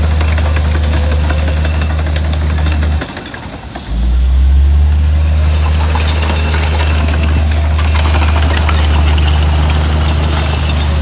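Heavy diesel engine of earthmoving machinery running steadily with a deep hum and light clatter. About three seconds in it drops away abruptly for roughly a second, then comes back a little louder.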